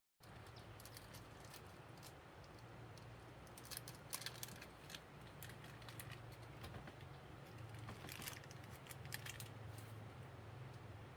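Faint scattered small clicks and light handling noises over a low steady hum, in two clusters, one a few seconds in and one near the end.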